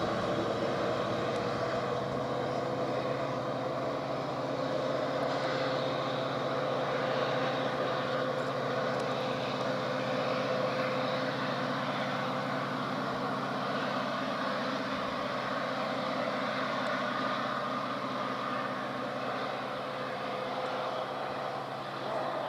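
EMD WDP-4D diesel-electric locomotive's two-stroke V16 engine running steadily under load as it hauls a passenger train up a steep gradient, a constant drone with a tone that rises slowly over the first few seconds.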